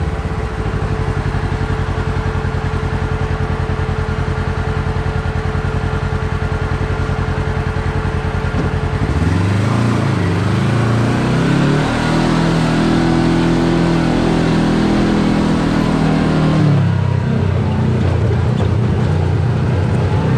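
Side-by-side UTV engine running on a trail ride: steady at first, the revs climb about nine seconds in, hold higher for several seconds, then drop back near the end.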